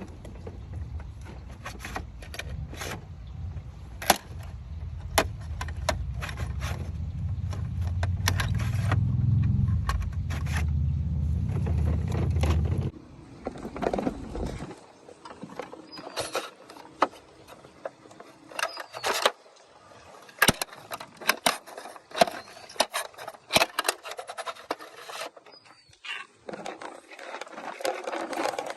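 Toy garbage truck's plastic wheels rolling on a hard surface with a low rumble that grows louder and stops suddenly about halfway through, then scattered clicks and scrapes of the toy's plastic parts being moved.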